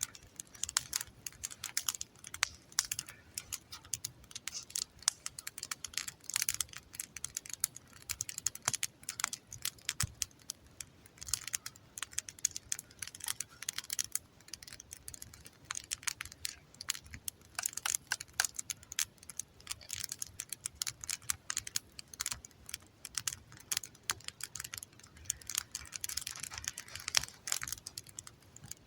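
Wood campfire crackling and popping: dense, irregular sharp snaps.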